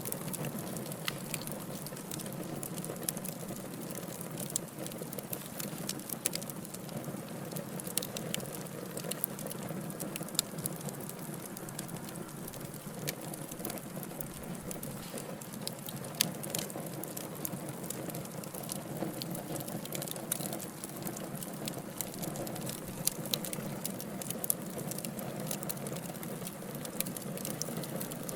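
Burning logs crackling: a steady low rustle of flames with frequent irregular sharp pops and snaps.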